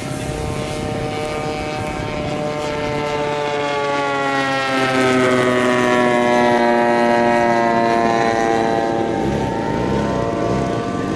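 Giant-scale propeller-driven radio-control model airplane flying past, its engine running steadily; the pitch falls as it goes by, loudest about halfway through.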